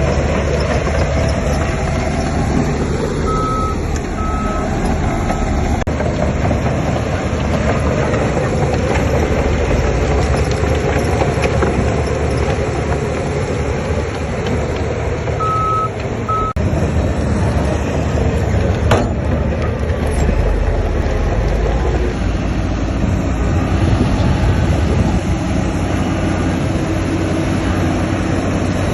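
Heavy diesel construction machinery (bulldozer and dump trucks) running steadily. A reversing alarm beeps three times about three seconds in and twice more around sixteen seconds in.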